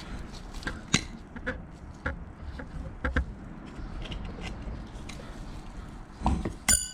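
Irregular light metal taps and knocks from hammering at a wheel bearing in a rear brake drum, ending near the end with one sharp, ringing metallic clink.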